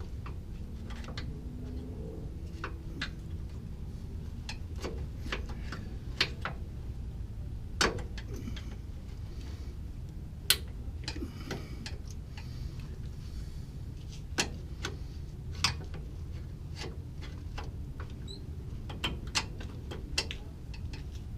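Irregular sharp metal clicks and taps of hand tools working at the small retainer clips on the upper control-arm bolts of a 2003 Chevy S10, with the clips resisting. A steady low hum runs underneath.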